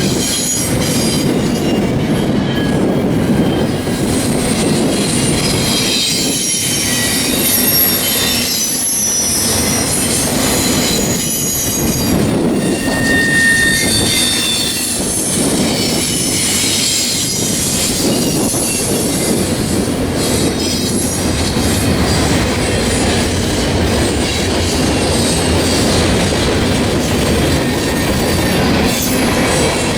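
Freight train cars rolling past, with wheel flanges squealing in high, shifting tones over a continuous rumble and the click of wheels over rail joints.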